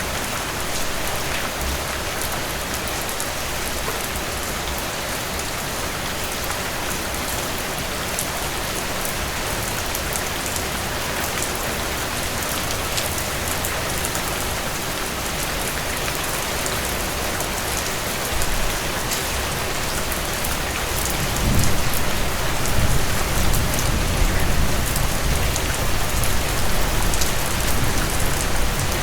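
Heavy rain on a tin roof: a steady dense hiss with many small sharp drop ticks. About three-quarters of the way through, a low rolling thunder rumble comes in and carries on under the rain.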